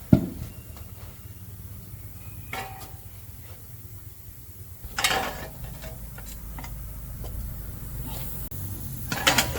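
Metal tools and parts clinking and knocking as they are handled, with a few separate sharp clanks and small ticks over a low steady hum.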